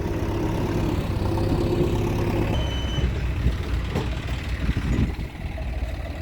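Eicher tractor's diesel engine running steadily, its note shifting about halfway through.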